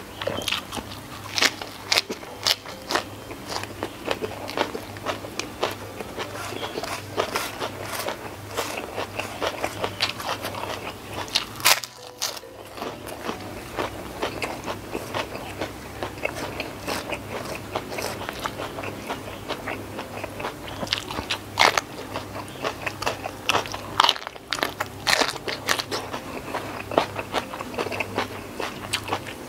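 Close-miked eating sounds: chewing and crunching of raw lettuce and sambal-coated rice, with many sharp wet mouth clicks. Fingers squish rice on a banana leaf. The sounds break off briefly twice, about 12 and 24 seconds in.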